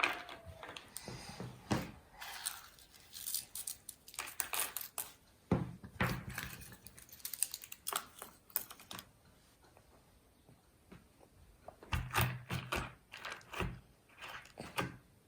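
Irregular clicks, taps and rustling of small objects being handled in a small room, with a few louder knocks about six seconds in and again near the end.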